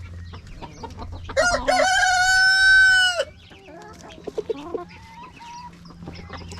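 A rooster crows once, a loud call of about two seconds that rises at the start and then holds steady before cutting off. Softer clucking from chickens follows.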